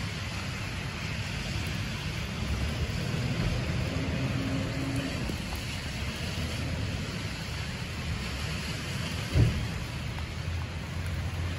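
Steady rain hiss and low street-traffic rumble on a wet city street, with a single sudden thump about nine seconds in.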